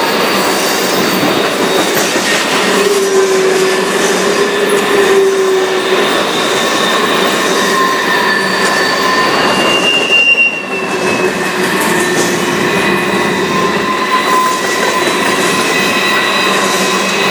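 Loaded freight cars, mostly covered grain hoppers, rolling past close by: a constant steel-wheel-on-rail rumble with several high, steady wheel squeals that come and go, one brief higher squeal about ten seconds in.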